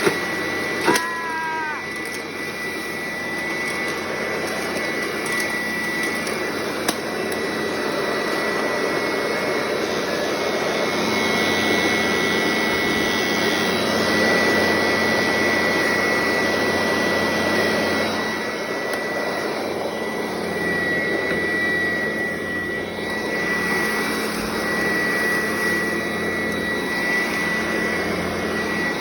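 Sanitaire upright vacuum cleaner running steadily, with a constant high-pitched whine over its motor noise. A sharp click and a short falling squeak come about a second in.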